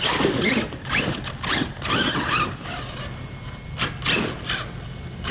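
ARRMA Talion 6S RC truck's drivetrain scraping and grinding in uneven rasping bursts, a sign of something wrong in the rear differential.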